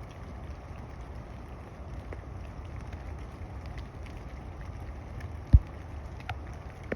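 Low rumbling wind noise on the microphone with scattered light taps of rain, and one sharp low thump a little past halfway.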